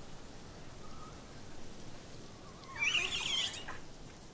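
A young monkey gives one high, wavering call about a second long, over faint steady background hiss.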